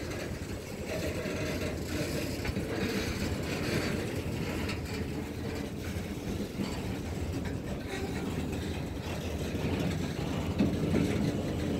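Freight train's tank cars and boxcars rolling slowly past, a steady rumble of steel wheels on the rails with occasional clanks.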